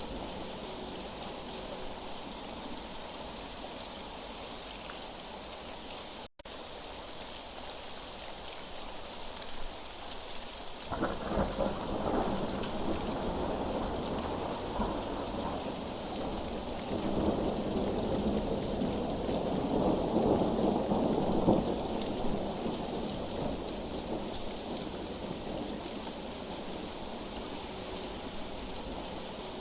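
Steady rain falling, with a long roll of thunder that begins about a third of the way in, is loudest about two-thirds through, then dies away. The sound cuts out for an instant early on.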